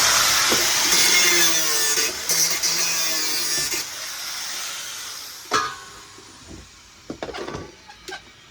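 A small high-speed electric motor, of the brushed kind used in power tools and appliances, runs with a loud harsh whirr. After about three and a half seconds it is switched off and winds down, its high whine falling as it slows. A sharp knock comes about five and a half seconds in.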